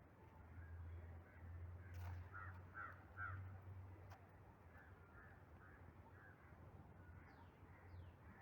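Crows cawing faintly, a few quick caws about two to three seconds in and weaker ones after, over a steady low hum.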